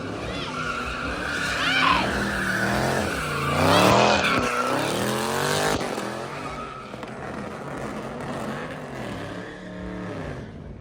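Car engine revving hard, its pitch climbing and falling again several times, loudest about four seconds in.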